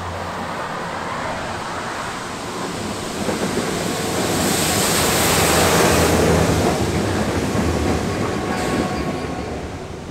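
Diesel locomotive hauling a railhead treatment train as it approaches along the track: an engine hum with wheel and rail noise that grows louder to a peak about five to six seconds in, then eases off.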